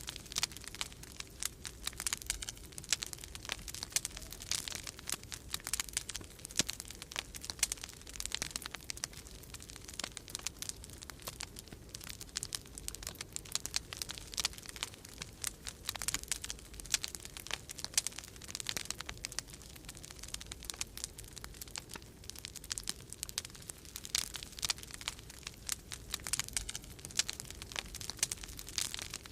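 Wood fire crackling in a fireplace: dense, irregular small pops and snaps, over a low steady rumble.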